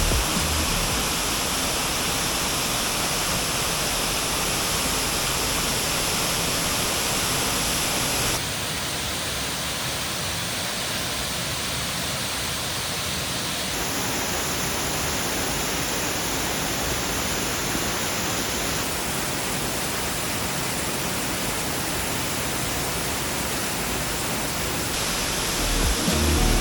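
Steady rush of falling water from a waterfall and mountain stream. Its tone shifts abruptly a few times.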